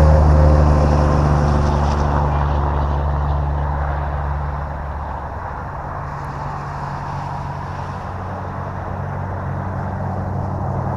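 E-flite F-15 Eagle RC jet with a 64 mm electric ducted fan flying a circuit, its fan noise fading as it moves away and growing louder again as it comes back around, over a steady low hum.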